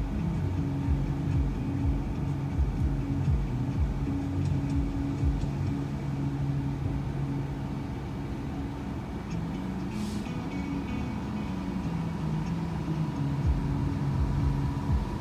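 Shuttle van engine and road noise heard from inside the cabin while driving, the engine note shifting in pitch as speed changes, with a brief hiss about ten seconds in.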